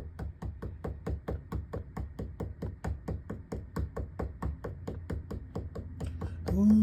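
Rapid, evenly spaced percussive taps, about six a second, over a steady low hum, as the rhythm of a song's intro. Near the end a voice starts a long held sung note.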